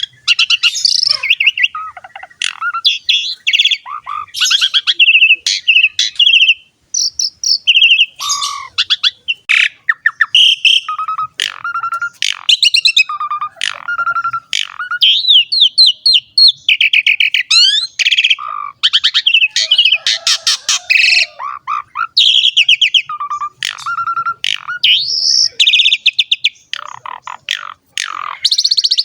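Pied starling (jalak suren) singing vigorously in full song: a varied, almost unbroken run of loud whistles, quick rattling note-trains and chattering phrases.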